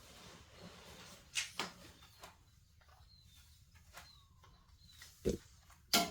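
A few scattered sharp knocks and clacks of objects being handled, the loudest a pair about a second and a half in and another pair near the end, with faint bird chirps in the background.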